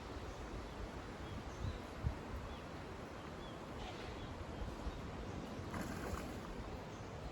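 Steady rushing of river water with some wind on the microphone, a few faint short bird chirps in the first few seconds and a couple of low thumps around two seconds in.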